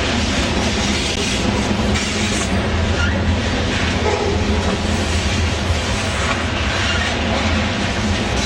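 Freight train of covered hopper cars rolling past, a steady noise of steel wheels on the rails.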